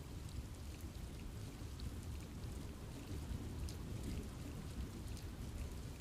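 Steady rain falling in a forest, with scattered individual drops ticking over a low, even rumble.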